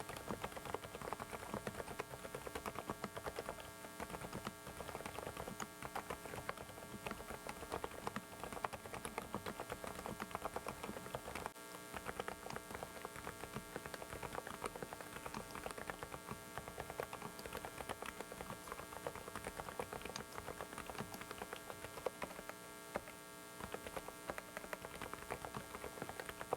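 Typing on a Dareu mechanical keyboard: rapid, irregular keystroke clicks that go on without a break. A steady electrical hum lies under it, from a faulty microphone.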